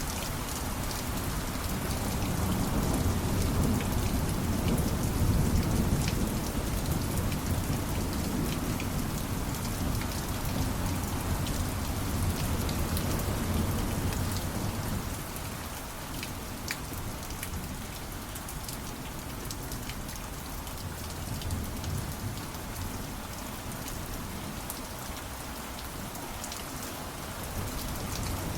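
Steady rain with many single drops ticking through it, and a low rumble of distant thunder that swells over the first half and dies away about halfway through.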